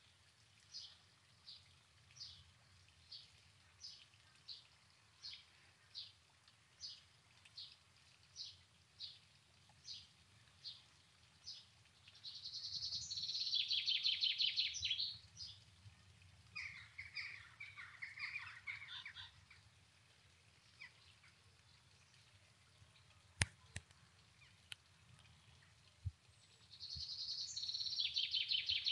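Songbirds: a short high chirp repeated about every two-thirds of a second, then a loud, fast trilled song about twelve seconds in and again near the end, with a lower chattering call between. Two faint sharp clicks come in the later part.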